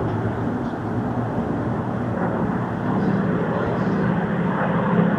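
Piston aero-engines of Spitfires droning overhead. The engine note steps up in pitch and grows a little louder about three seconds in.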